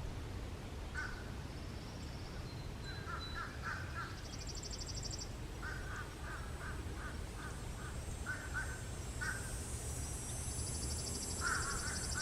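Birds calling: runs of short harsh calls, a quick string of about six in the middle, with two faint high trills and a steady low rumble underneath.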